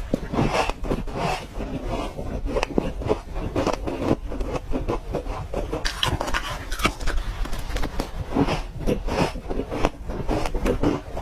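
Ice being bitten and crunched between teeth: a dense, irregular run of sharp crunches.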